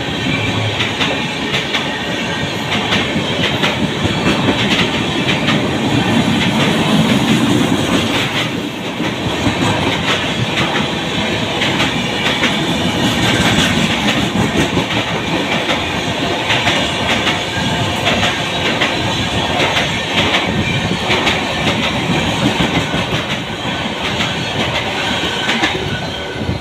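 Jan Shatabdi Express passenger coaches running through a station at speed, their wheels clattering over the rail joints in a continuous clickety-clack. The clatter eases slightly near the end as the last coach goes by.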